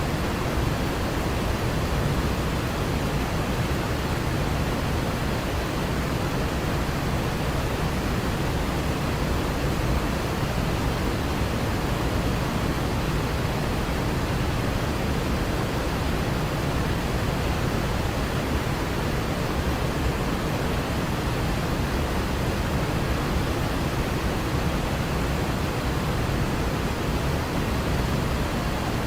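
Waterfall: a steady, unbroken rush of falling water, strongest in the low end.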